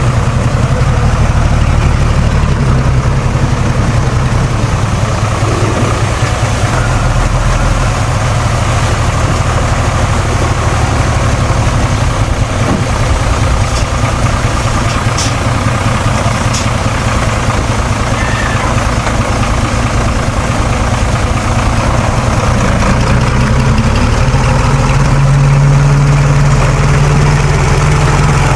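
Heavy diesel engine of earthmoving machinery running steadily with a deep low throb, which grows louder near the end.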